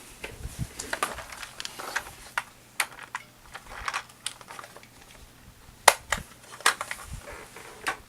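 Irregular clicks and knocks of hard plastic being handled: a toy transformation belt and its battery compartment being worked at, with one sharper knock about six seconds in.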